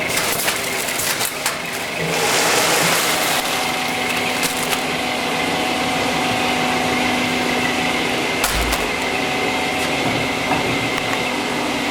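Puzzle-packing machinery (conveyor and automatic bagger) running with a steady hum and scattered clicks; a louder hiss comes in about two seconds in and lasts a second or so.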